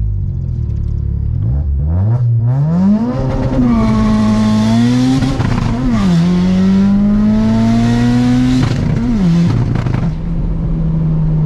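Turbocharged Audi 1.8T four-cylinder with a Garrett GTX3071R turbo accelerating hard through the gears, heard from inside the cabin. The engine pitch climbs from about two seconds in, drops at a shift about halfway through, climbs again and drops at a second shift, then settles to a steady cruise. A loud rushing hiss rides over the engine during the pull.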